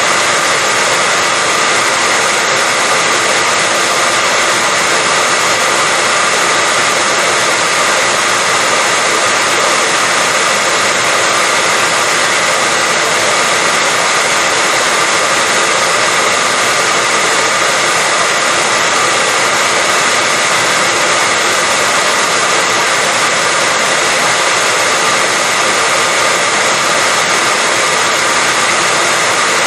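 Hair dryer running at a steady speed: an even, unbroken whoosh of blowing air with a faint steady whine from its motor.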